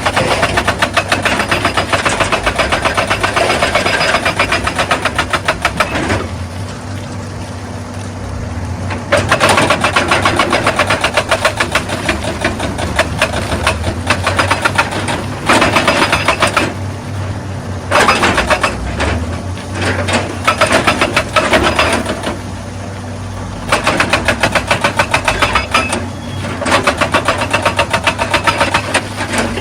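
Excavator's diesel engine running steadily, with a hydraulic rock breaker hammering rapidly on stone in bursts of a few seconds each and short pauses between them.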